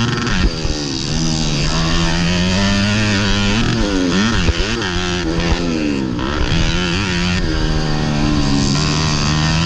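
Modified underbone motorcycle engine at racing speed, revving up and down over and over as the throttle is opened and closed.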